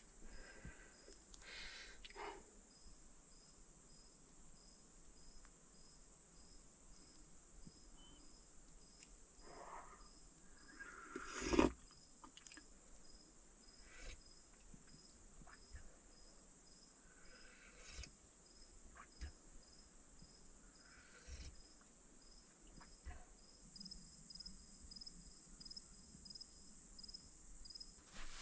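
Insects trilling steadily and high-pitched, with a softer chirp repeating evenly. Scattered rustles and light knocks sound over them, with one sharp thump about twelve seconds in.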